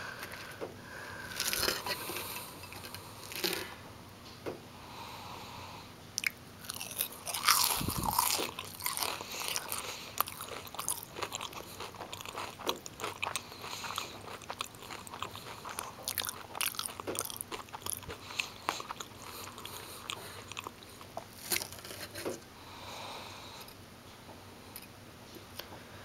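Close-miked chewing of crispy breaded fish sticks: irregular crunching and crackling bites all through, loudest about eight seconds in.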